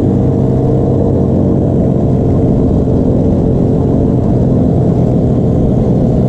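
Small pit bike engines running at a steady cruise, heard from on board one of the bikes in a group ride.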